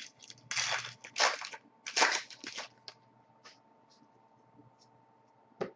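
Foil trading-card pack being torn open and crinkled, in about five short rustling bursts over the first three seconds, then a single sharp click near the end.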